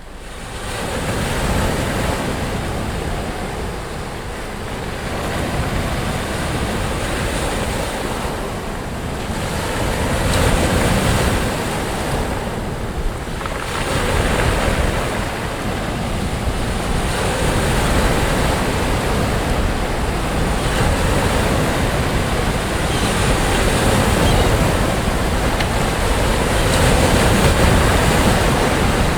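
Sea waves breaking and washing up a beach: a continuous rush of surf that swells and eases every few seconds, fading in from silence at the start.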